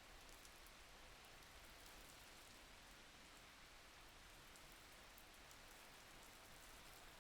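Faint, steady rain falling, with scattered light drop ticks.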